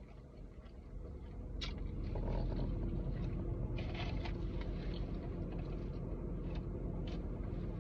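Low vehicle rumble inside a parked car, swelling about two seconds in and then holding steady, with a few short soft clicks and rustles of eating.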